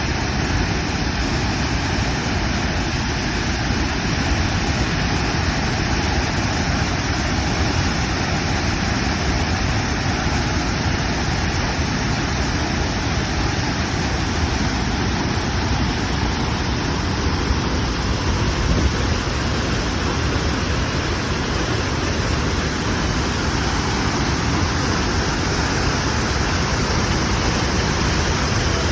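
Mountain stream rushing steadily, a loud, even wash of water noise.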